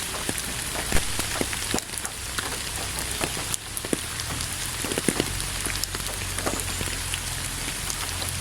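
Steady rain falling, an even hiss with many distinct, sharp taps of single drops striking close by.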